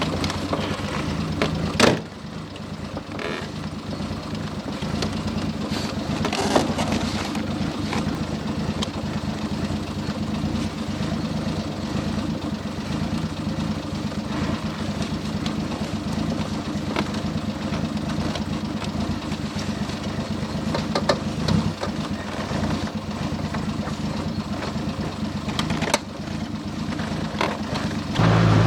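Triumph six-cylinder engine with twin SU carburettors running steadily as the car is driven on a test run, with a brief sharp knock about two seconds in.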